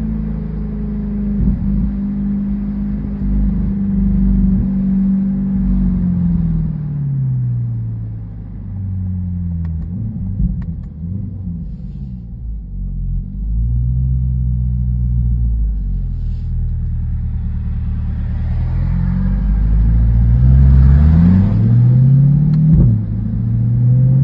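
2023 C8 Corvette's 6.2-litre V8 running through an AWE Track exhaust as the car is driven: the engine note falls as revs drop, holds a low rumble for a few seconds, then rises under acceleration, dips briefly at a gear change about three-quarters through, and climbs again.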